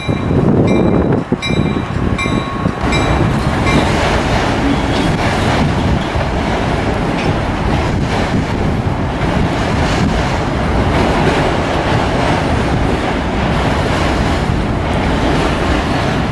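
A locomotive bell rings about twice a second for the first few seconds, then stops. Over and after it, a string of autorack freight cars rolls past with the steady rumble and clatter of steel wheels on rail.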